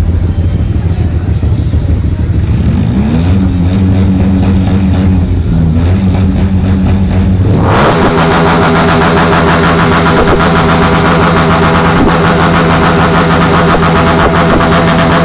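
Hyosung ST7 cruiser's V-twin engine with a loud exhaust. It idles, then is revved about three seconds in and held at raised revs. A little before the halfway point it jumps sharply louder and fuller and holds a steady high rev.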